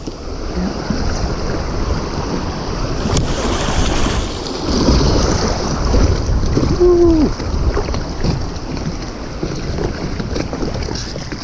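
Steady wind rumble on the microphone mixed with rushing water, with one short 'ooh' from a man about seven seconds in.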